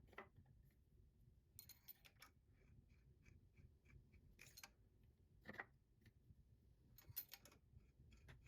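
Faint, scattered small clicks and taps, some in short clusters, as a valve and measuring tools are handled on the bench.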